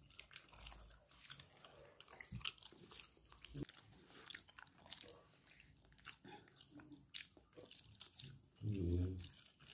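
People chewing and biting into battered fried banana fritters, with scattered small clicks and crackles of eating. A brief voice near the end.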